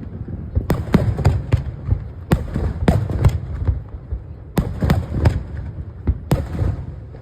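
Aerial fireworks bursting in quick clusters of sharp bangs, a group roughly every second or two, over a continuous low rumble.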